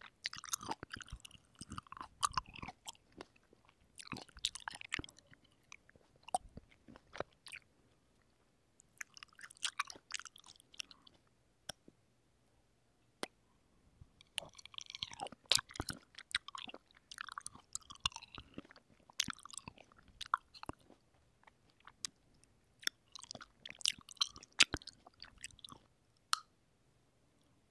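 Close-miked eating of ripe, juicy sweet cherries: wet bites, squishy chewing and lip smacks come in bursts of a few seconds with short pauses between, and a few single sharp clicks stand out.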